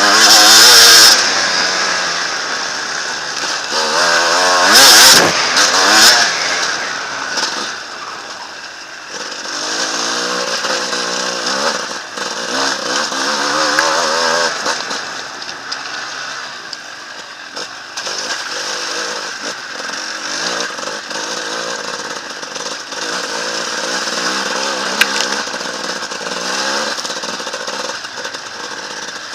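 Enduro motorcycle engine revving hard and unevenly, its pitch rising and falling again and again as the throttle is worked. The loudest bursts come right at the start and again around five seconds in.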